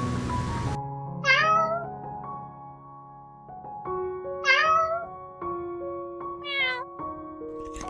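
A cat meowing three times, each call sliding up and then down in pitch, the last one shorter, over soft background music of held notes. A steady hiss cuts off suddenly under a second in.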